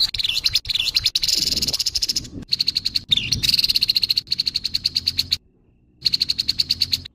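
Grey-headed babbler giving harsh rattling chatter: fast trains of dry pulses in three long runs, broken by a brief pause a little after two seconds and a longer one near five and a half seconds.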